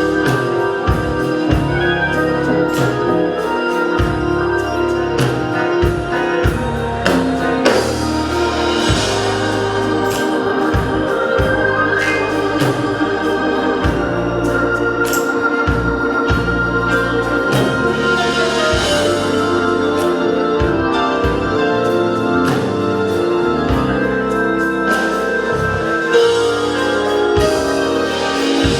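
Instrumental organ music: a Hammond-style organ holding sustained chords over a stepping bass line, with sharp percussive hits scattered through.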